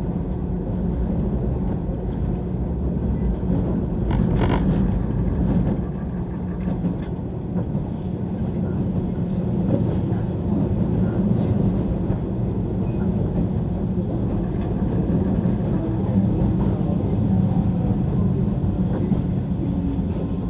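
Cabin running noise of a JR 185 series electric train: a steady low rumble of wheels on rail, with one sharp click about four seconds in.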